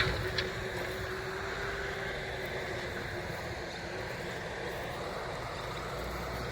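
Diesel engines of a JCB 3DX backhoe loader and a dump truck running steadily, with a thin steady whine over the rumble. Two sharp knocks come in the first half second.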